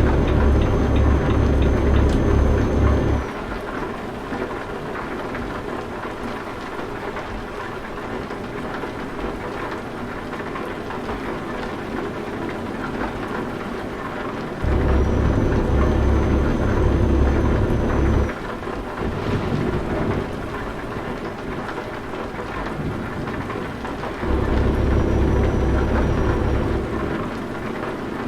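Steady rain with a deep truck-engine rumble that cuts in abruptly three times for about three seconds each and drops out just as suddenly, leaving the rain on its own.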